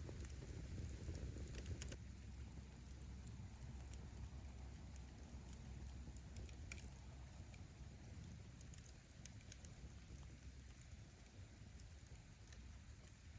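Faint wood fire burning: scattered crackles and pops of burning firewood over a low rumble, a little busier in the first couple of seconds.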